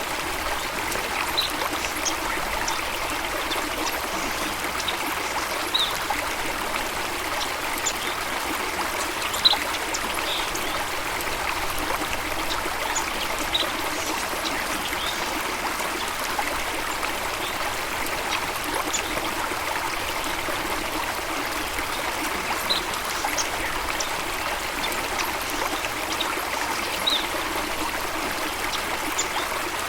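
Steady running water of a stream, with short high bird chirps scattered every few seconds.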